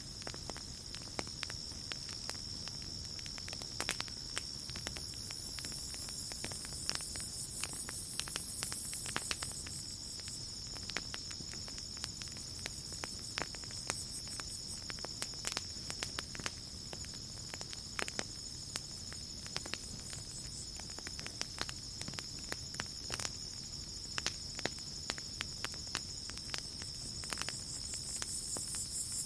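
Campfire crackling with frequent sharp pops and snaps over a low rumble, under a steady high-pitched trill of night insects such as crickets; a higher pulsing chirr swells in twice.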